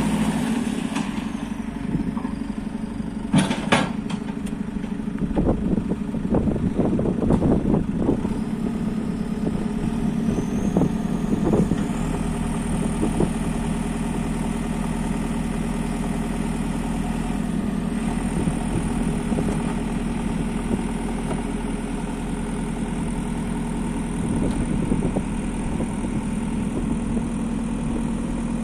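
JCB 3CX backhoe loader's diesel engine running steadily, with a run of knocks and clatters in the first half and a faint high whine that rises in pitch twice.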